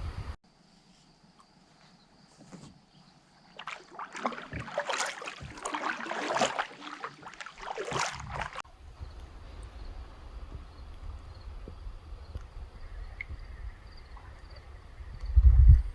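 Kayak paddle splashing and dripping in the water in a run of irregular strokes for about five seconds. Then comes a faint steady outdoor ambience, with low wind rumble on the microphone growing loud near the end.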